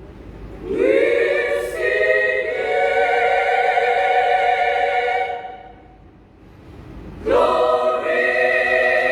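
Women's choir singing a cappella: two long held chords, the first rising in at about a second and fading out near the middle, the second entering about a second later and still held at the end.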